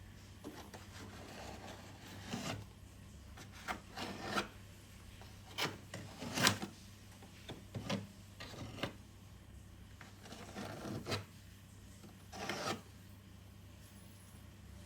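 Irregular short scraping strokes, about ten of them at uneven intervals, over a steady low hum.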